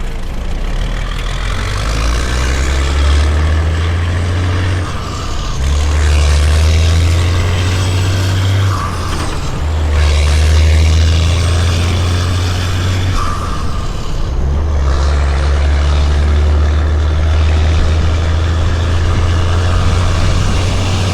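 Heavily loaded semi-truck's diesel engine pulling under load and working up through the gears. The engine drops off briefly at each of three shifts, then pulls again.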